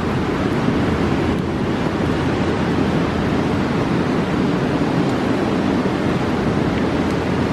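A fast mountain river rushing, a steady deep roar of water with no let-up.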